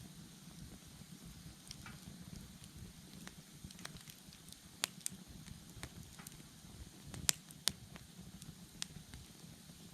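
Wood bonfire burning: a low steady rustle of flame with scattered sharp crackles and pops from the burning wood, one strong pop about five seconds in and two close together past seven seconds.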